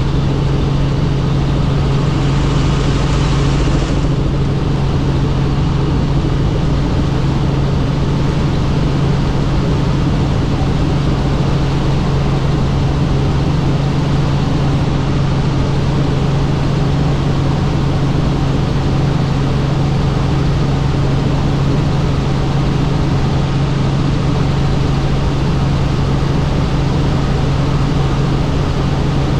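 Helicopter in flight: steady engine and rotor drone with a strong low hum and overtones, and a brief brighter hiss about two seconds in.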